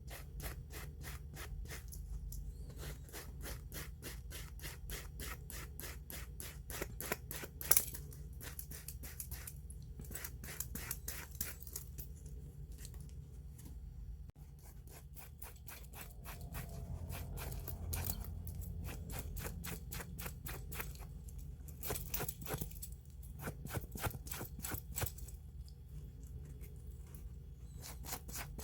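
Quick, even rubbing strokes on an old watch, several a second, made one direction at a time by hand during its restoration, with a sharper click about eight seconds in.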